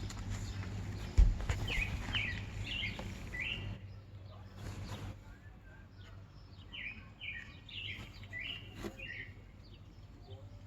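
A small bird chirping in two runs of quick, short, falling chirps. There is a sharp thump about a second in.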